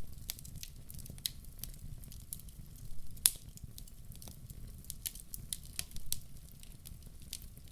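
Wood fire crackling in a fireplace: irregular sharp pops and snaps, with one louder pop about three seconds in, over a steady low rumble.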